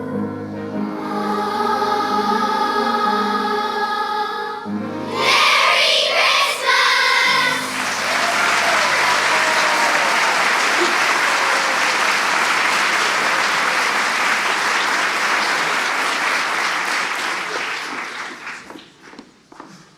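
Children's choir singing the last held notes of a song, ending on a loud final chord about seven seconds in. The audience then applauds, and the applause dies away near the end.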